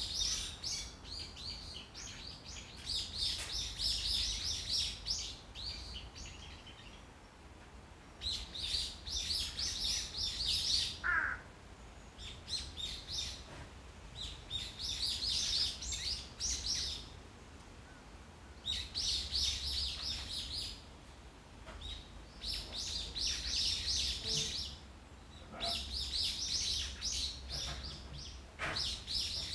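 A small songbird singing in bouts of rapid, high chirps, each bout lasting a few seconds with short pauses between them.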